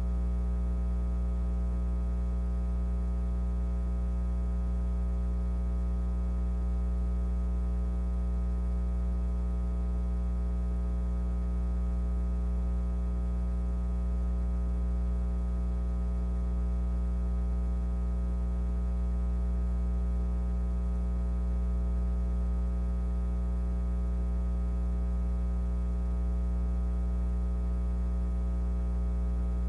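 Steady low electrical hum with a buzzy stack of overtones, unchanging throughout.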